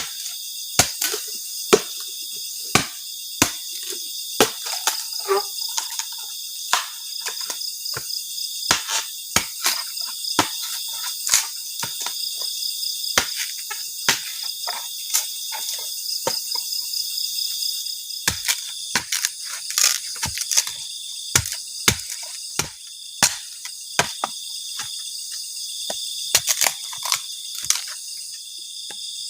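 Forest insects trilling steadily and high-pitched, overlaid with many sharp knocks and clicks at irregular intervals, often less than a second apart.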